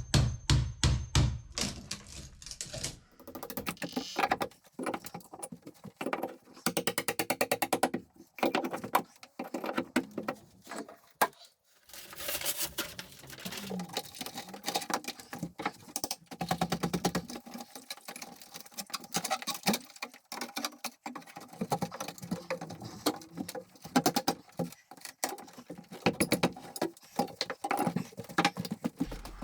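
Rapid series of knocks, taps and clatters of tools working on wooden stair parts, opening with a quick run of even hammer-like blows.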